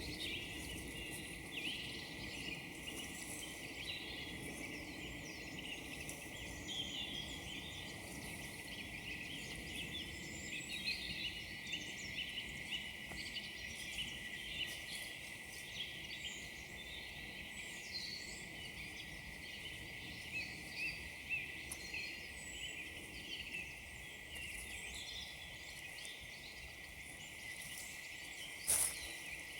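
Woodland birdsong: many small birds chirping and trilling at once over a low, steady background hush, with one short, sharp crackle near the end.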